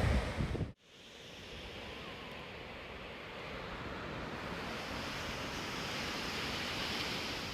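Ocean surf washing onto a beach: a steady hiss of waves that slowly swells. Under a second in, a burst of wind rumbling on the microphone cuts off abruptly.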